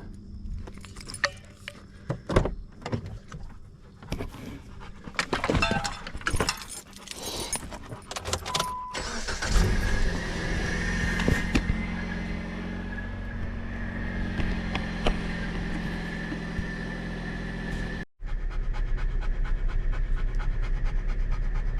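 Keys jangling and clicks of handling inside a car, then a short beep and the car engine starting about nine seconds in and running steadily. After a brief break the car keeps up a steady drone with a fine ticking.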